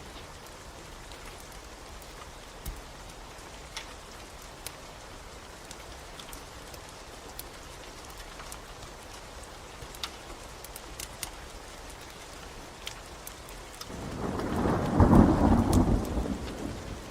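Steady rain with scattered sharp crackles of a log fire. About fourteen seconds in, a low roll of thunder swells up, becomes the loudest sound, and fades over a few seconds.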